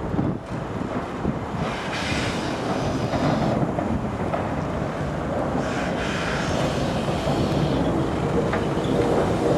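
Steam locomotive on the move, a steady rumbling rail noise with wind on the microphone.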